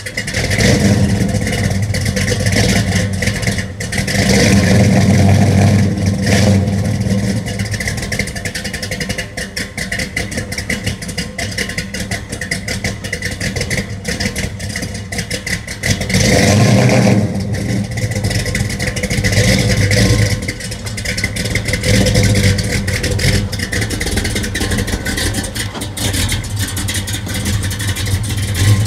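A 1967 Mercury Cougar GT's 390 cubic inch big-block V8 running cold, just after a cold start, with its revs swelling up and settling back several times. Near the end the car moves off.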